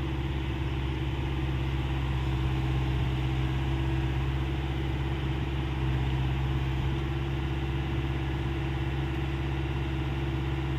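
Hyundai 85 excavator's diesel engine running at a steady, unchanging speed.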